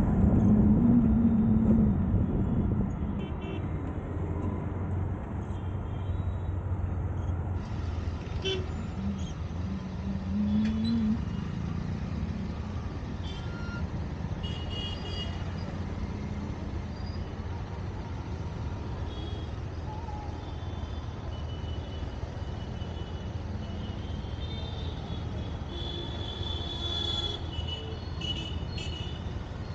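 Road traffic with a steady engine and tyre rumble, and many short horn toots from the surrounding vehicles, most of them late on.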